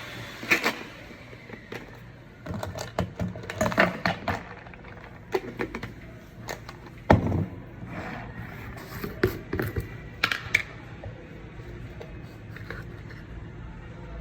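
Irregular knocks, clicks and scrapes, a dozen or so spread unevenly, over a low steady hum.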